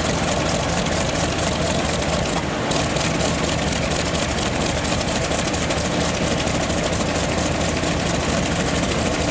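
Focke-Wulf Fw 190A-5's BMW 801 twin-row radial engine running steadily during its warm-up after a start.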